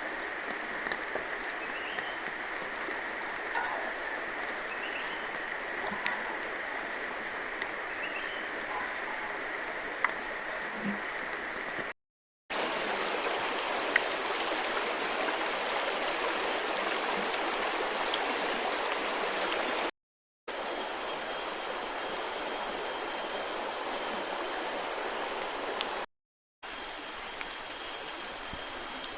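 Steady rushing of a forest river running past, with a thin high whine held over it in some stretches. The sound cuts out abruptly three times for a moment and comes back.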